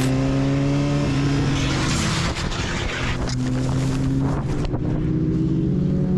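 Motorcycle engine running at a steady pitch. About two seconds in, the pitch briefly breaks and there is a patch of hiss, then the engine note resumes.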